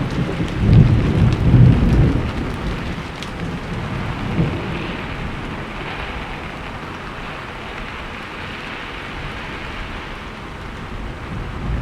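Steady heavy rain, with low rolling thunder rumbling through the first two seconds and a smaller rumble about four and a half seconds in.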